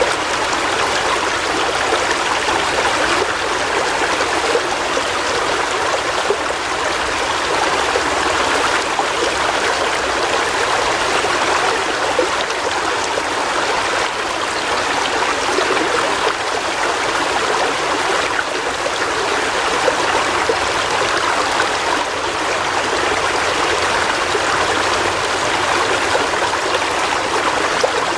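River water flowing steadily over rocks, an even rushing with a light trickle.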